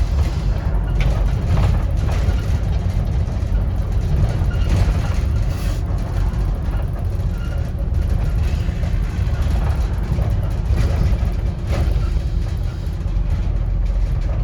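Interior of a moving Scania N230UD OmniCity double-decker bus: steady low rumble from its five-cylinder diesel engine mixed with road noise, with a few faint knocks from the body.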